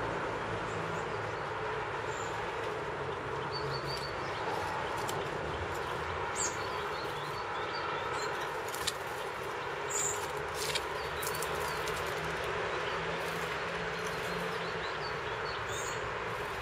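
A few short, high chirps from small songbirds at a feeder, scattered among a few sharp clicks, over a steady background rumble.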